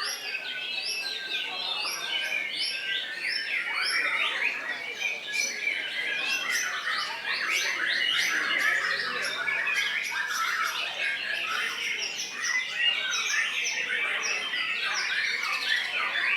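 White-rumped shamas (murai batu) singing, a dense, unbroken stream of quick chirps and whistled phrases with several songs overlapping, and a run of repeated up-slurred high notes in the first few seconds.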